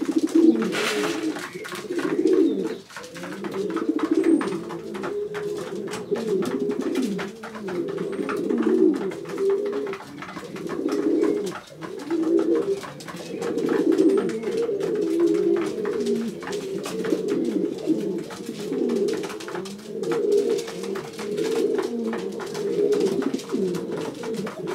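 Many racing pigeons cooing together in a loft, a continuous overlapping chorus of low cooing calls, with scattered light clicks and taps from the birds.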